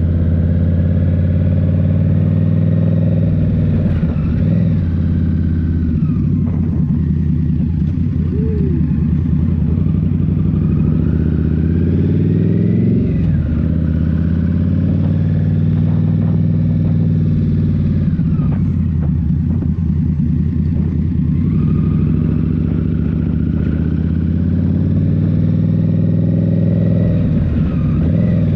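Indian Scout Rogue's 1133 cc V-twin engine running through a Rinehart slip-on exhaust, heard from the rider's seat. The revs climb and drop back several times, with sharp falls about 4, 13, 18 and 28 seconds in.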